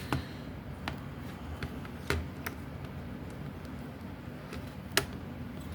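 A few scattered small clicks and taps, the sharpest about five seconds in, over a low steady hum: tools and parts being handled as an iPhone 13 is opened and its display separated from the frame.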